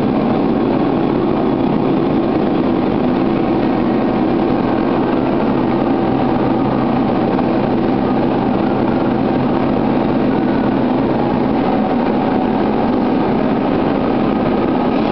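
IWS VTL Dynamic vertical glass-washing machine running with a steady, even mechanical drone.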